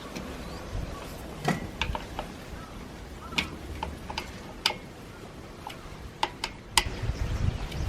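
Irregular sharp clicks and light taps of hand tools and small metal and plastic parts being handled during a brush cutter's disassembly, about a dozen in all, with a closer cluster near the end.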